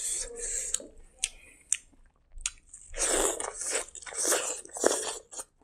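Close-miked eating with the hand: a few sharp mouth clicks, then a mouthful of raw leafy greens bitten and chewed with wet crunching, loudest from about three seconds in.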